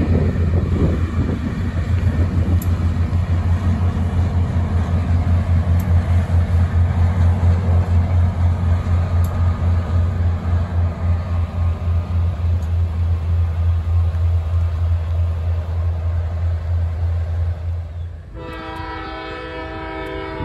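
A diesel-hauled passenger train of bilevel coaches rolling past close by, a loud, rapidly pulsing low rumble of locomotive engine and wheels on rail. About eighteen seconds in, the rumble gives way to a diesel locomotive's multi-tone air horn sounding a steady chord for about two seconds as the train approaches a grade crossing.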